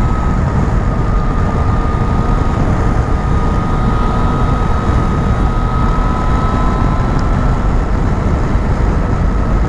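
Motorcycle under way at a steady speed: a loud, even rush of wind and road noise with the engine's steady drone underneath, and a faint steady whine held throughout.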